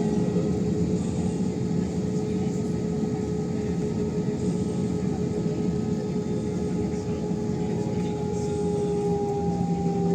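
Airbus A321 jet engines running at taxi power: a steady whine over a broad rumble, the whine easing slightly lower in pitch near the end.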